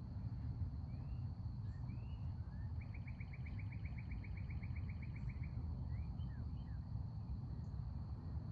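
A small songbird sings an even, rapid trill of about seven or eight notes a second for nearly three seconds, with a few short slurred chirps before and after it. Under it runs a steady low outdoor rumble and a faint high insect hum.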